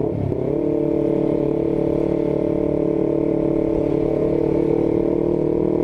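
Honda CBR250RR parallel-twin engine through an R9 GP series full-system aftermarket exhaust, under way on the road. It dips briefly near the start, then holds a steady, even note.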